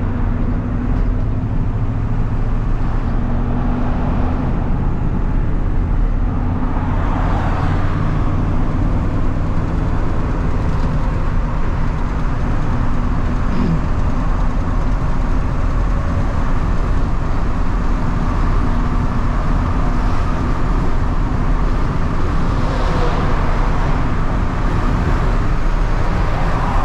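Steady engine drone and road noise heard from inside a moving vehicle's cabin at highway speed.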